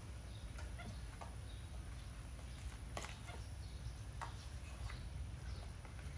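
Birds chirping faintly in short scattered calls, with a couple of sharp clicks, the strongest about three seconds in, over a steady low rumble.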